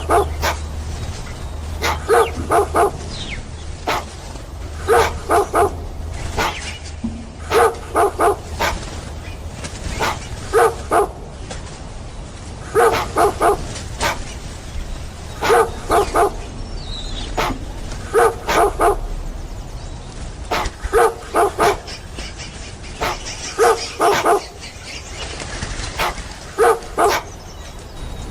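Dog barking in quick runs of three or four barks, the runs repeating about every two and a half to three seconds, over a low steady hum.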